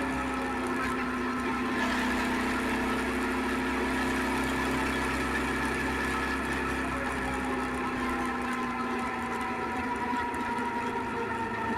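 Suzuki SV650X's 645 cc V-twin engine running steadily, its pitch easing slightly lower over the last few seconds.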